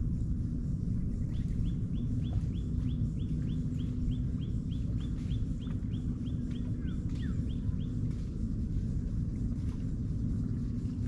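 A bird calls a long run of short, falling notes, about four a second, starting about a second in and stopping around eight seconds, over a steady low rumble.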